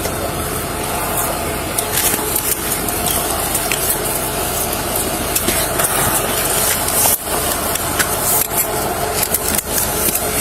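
Steady noise of vehicle engines idling, with scattered small clicks and rustles.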